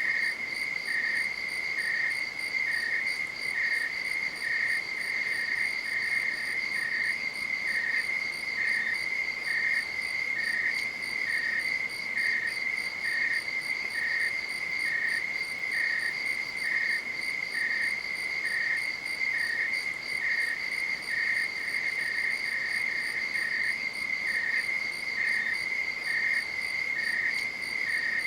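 Night insects calling: one keeps up a steady, unbroken high trill while another, slightly lower, chirps evenly a little more than once a second.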